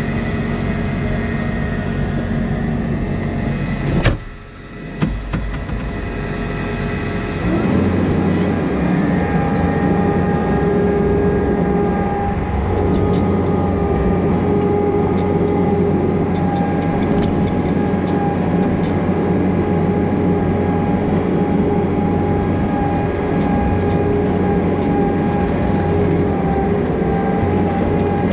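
Farm feeding machinery running steadily: a diesel skid loader and an old feed mixer. There is a sharp click and a brief dip about four seconds in, and from about seven seconds in a louder, even run with a steady whine.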